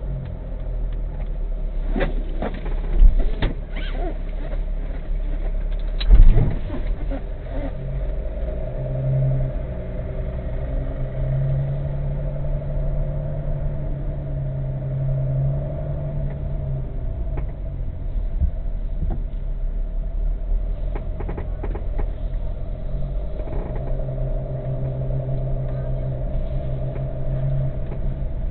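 Car driving, with steady engine and road rumble heard from inside the cabin. Two loud knocks come about three and six seconds in, with a few lighter clicks later.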